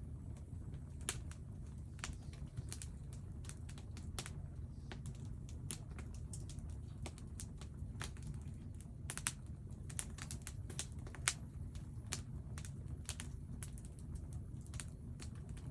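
Burning firewood crackling: irregular sharp pops and snaps, a few louder than the rest, over a steady low rumble.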